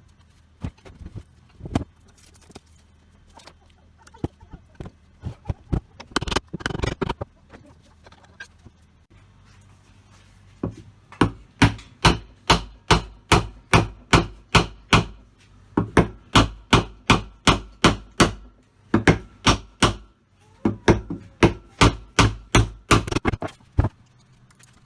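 Workshop striking: scattered light knocks at first, then from about ten seconds in, steady runs of sharp blows about two and a half a second, with short pauses between runs.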